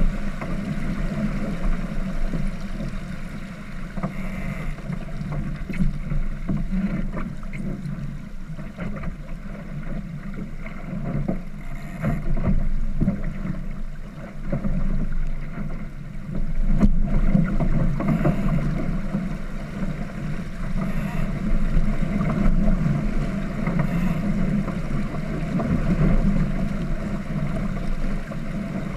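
Steady wind and water noise aboard a sailboat under way, with wind buffeting the microphone in a low, uneven rumble.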